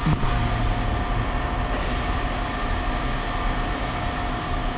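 Heavy machinery running steadily: a low rumble with a thin, steady whine held at one pitch.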